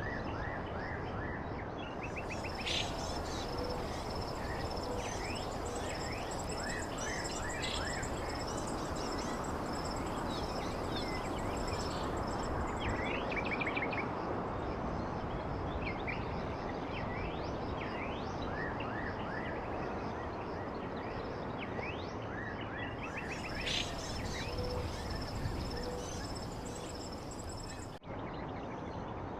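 A chorus of small birds chirping and twittering in short, quick calls over a steady background hiss, with a high, thin trill that comes and goes. The sound dips sharply for a moment near the end.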